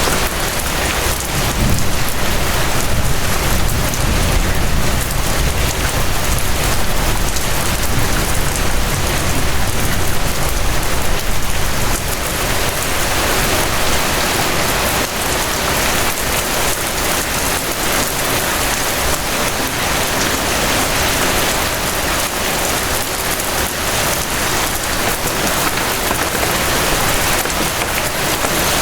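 Steady rain falling as a dense, even hiss, with a low rumble underneath through the first half that eases off around the middle.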